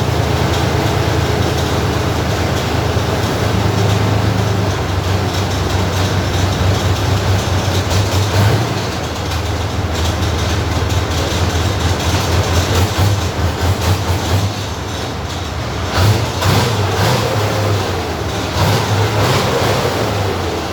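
Armoured recovery vehicle's engine running with a loud, steady deep drone; in the last few seconds its note rises and falls a little, with a few sharp clicks.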